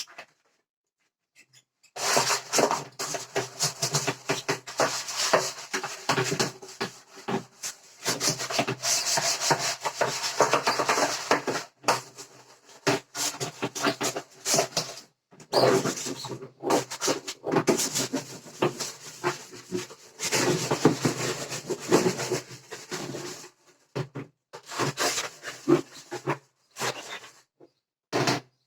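A birdcage being scrubbed with soap: scratchy rubbing strokes in long runs, starting about two seconds in and broken by a few short pauses.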